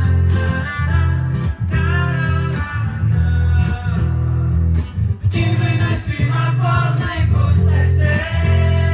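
Live band music from an acoustic set: a guitar-led instrumental passage over a strong bass line, with no lead vocal.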